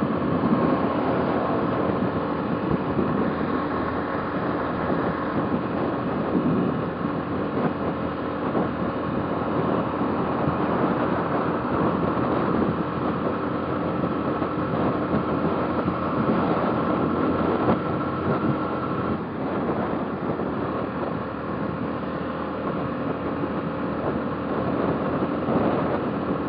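Motorcycle engine running steadily while riding at a constant speed, with wind rushing over the microphone. About two-thirds of the way through, the engine note drops a little and the sound gets slightly quieter.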